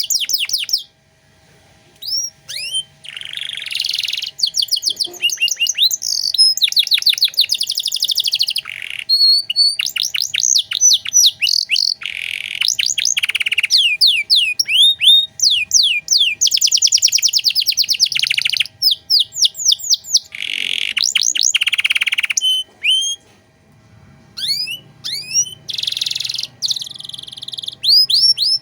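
Domestic canary singing a long, varied song of rapid trills and quick rising whistled notes, with brief pauses about a second in and again near the end.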